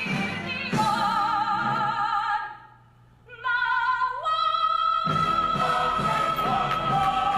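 A woman singing a Broadway show tune in a full, operatic style with wide vibrato, backed by an orchestra. The music drops almost to silence about two and a half seconds in, then comes back with a long held note.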